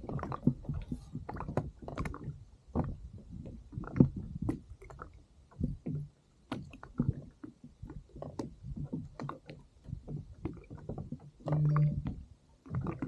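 Water slapping and knocking irregularly against the hull of a drifting kayak.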